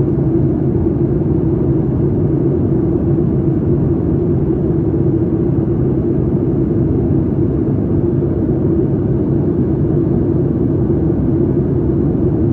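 Steady drone of a Boeing 737 MAX 8's engines and airflow heard inside the passenger cabin: a constant hum over a deep rumble, with no change.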